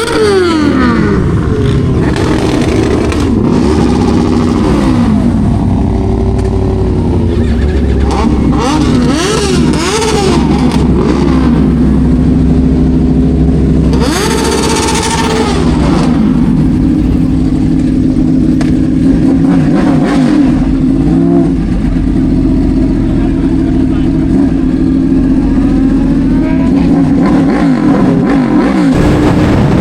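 Yamaha R1 sport bike's inline-four engine under way, its pitch climbing and dropping again and again as it accelerates and shifts through the gears. A loud rush of noise comes about halfway through.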